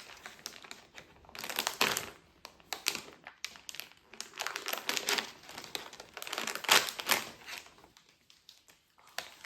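Packaging crinkling and rustling in bursts as a mini toy monster truck's mystery pack is unwrapped by hand, loudest about two, five and seven seconds in, then going quiet near the end.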